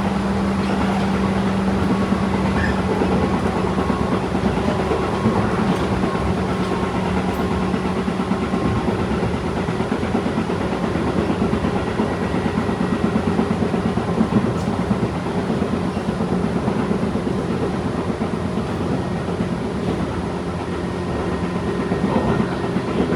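Tobu 8000 series electric train running along the line: a steady rumble of wheels on rail with rail-joint clatter, and a low hum that weakens a few seconds in.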